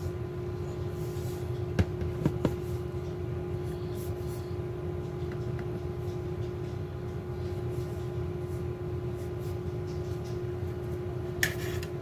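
Steady low mechanical hum with a faint steady tone. A few light clicks come about two seconds in, and a short rustle or handling sound comes near the end.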